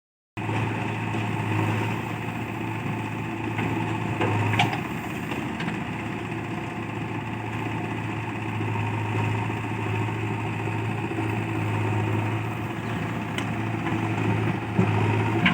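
A heavy diesel engine running steadily, with a sharp knock about four and a half seconds in. The sound cuts in abruptly just after the start.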